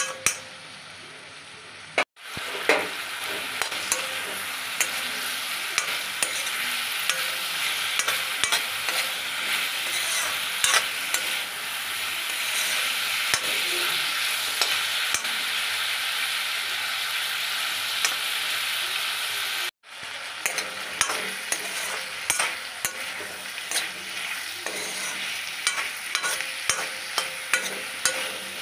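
Potato and kohlrabi chunks sizzling as they fry in an aluminium kadai, with frequent clinks and scrapes of a metal spoon stirring them against the pan. The sound drops out for a moment twice, about two seconds in and again about twenty seconds in.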